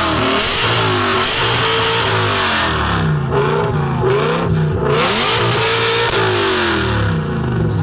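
BMW M5 engine with an Evosport exhaust being revved, its pitch climbing and dropping several times in a row.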